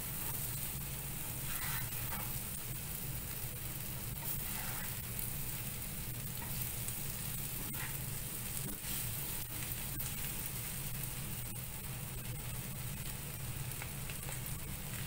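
Boiled potato pieces and onions sizzling steadily in oil in a non-stick frying pan, with a wooden spatula stirring and scraping them now and then.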